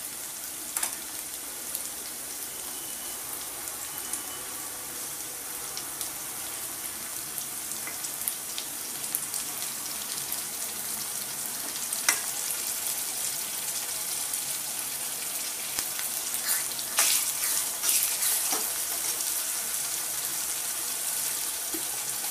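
Chopped onions with green chilli-ginger paste sizzling in hot oil in a kadhai, a steady hiss that grows a little louder about halfway through. A steel ladle clinks against the pan a few times as it is moved.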